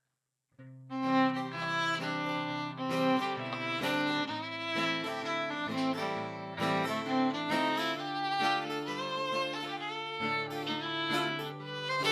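Fiddle and guitar playing the instrumental intro of a folk song, starting together about a second in after a brief silence.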